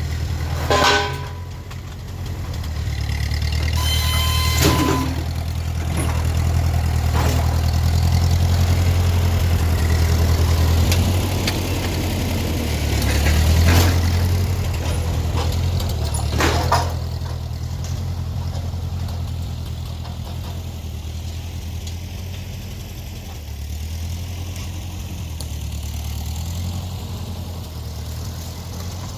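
Gas engine of a fork-equipped machine running steadily, with a few sharp clanks and knocks from slab wood being moved.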